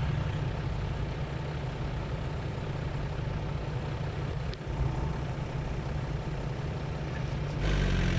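Off-road 4x4 engine running with a steady low rumble, getting louder about seven and a half seconds in.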